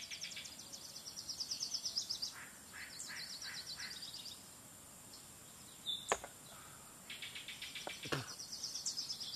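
Outdoor ambience with a bird's rapid high trill, repeated in runs of about two seconds. Two sharp knocks come about six and eight seconds in.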